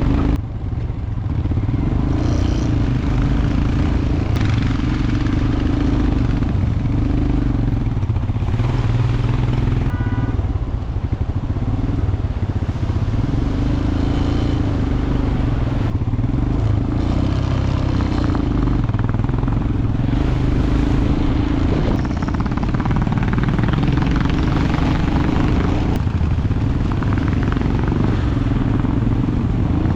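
Royal Enfield motorcycle engine running steadily as it is ridden, its note rising and falling a little with the throttle, with a brief dip in level about ten seconds in.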